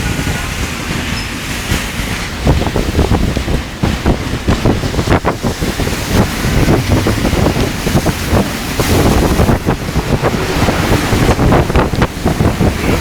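Heavy rainstorm with gale-force wind, the gusts buffeting the microphone in loud, irregular rumbles over the constant rush of rain.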